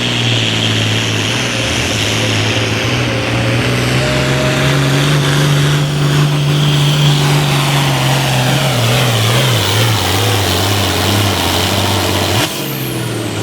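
Turbocharged altered farm pulling tractor engine running at full throttle under load from the weight-transfer sled, with a high turbo whistle over the engine note. In the last few seconds the engine pitch sags as it lugs down under the sled, and the sound drops off abruptly near the end.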